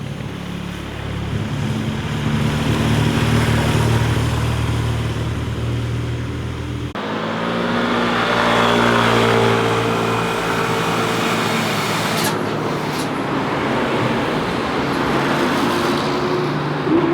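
Motorcycle engines going past one after another: the first grows louder as it approaches. About seven seconds in, a sudden cut brings in another bike, its engine note shifting as it rides through.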